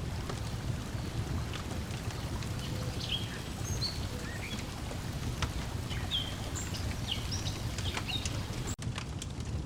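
Layered lakeside ambience: a steady wash of water lapping against the shore under the sharp pops and crackles of a wood fire, with small birds chirping in short notes through the middle. The sound drops out for an instant near the end.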